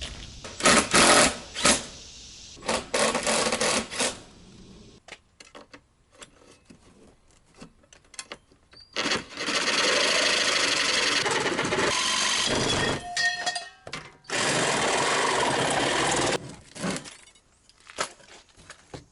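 Handheld power tool running in separate bursts: two short ones near the start, then one of about three and a half seconds and another of about two seconds, with scattered clicks and knocks between. It is being used to fasten aluminum siding to a truck camper's wall.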